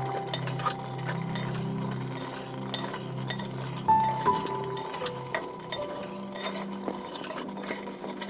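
A spoon stirring food frying in a pot, with scattered clinks of the spoon against the pot and a light sizzle.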